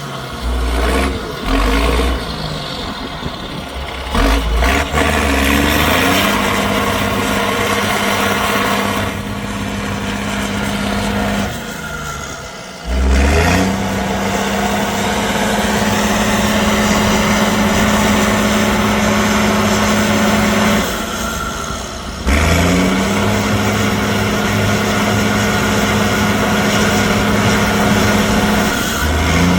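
Heavy off-road trial truck's engine under hard throttle. After a few short blips near the start, the revs climb sharply and hold high three times, dropping back briefly between.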